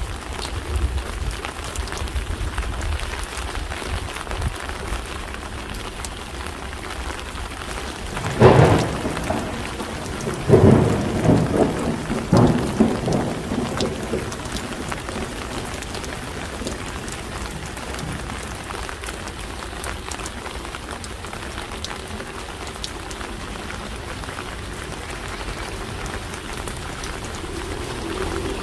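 Steady rain falling and pattering on surfaces. About a third of the way in come a few louder, rumbling bursts over several seconds.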